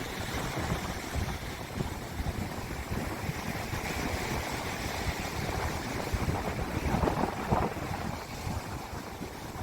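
Sea waves washing onto a beach, mixed with wind buffeting the microphone in gusts; a louder surge comes about seven seconds in.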